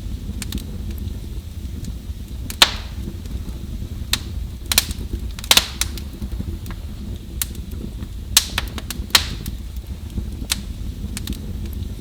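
Wood fire in a fireplace crackling, with sharp pops scattered irregularly through, the loudest about two and a half seconds in, over a steady low rumble.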